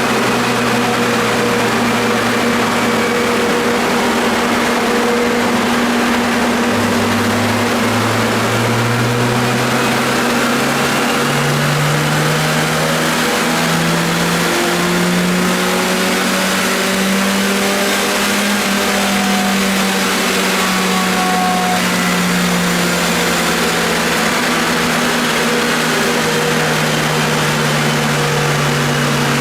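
Car engine running under load on a chassis dynamometer during a dyno run. Its note climbs slowly over about ten seconds, then eases back a little, against a steady drone.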